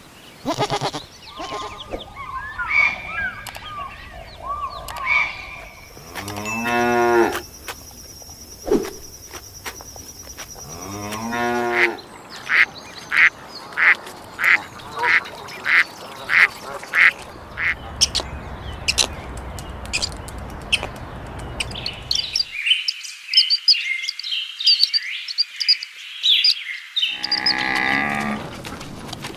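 A series of different animal calls, one kind after another. Among them are long pitched calls and a run of short calls repeated at an even pace in the middle.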